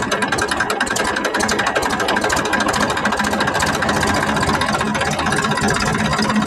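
Toy RC tractor's engine-like sound running steadily, a fast even chugging with a steady hum under it.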